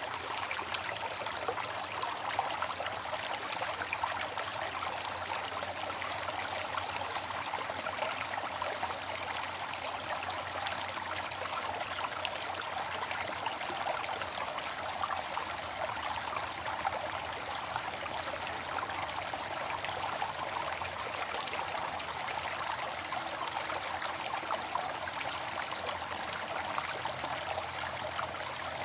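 Water fountain splashing and trickling steadily, a continuous running-water sound with fine droplet patter.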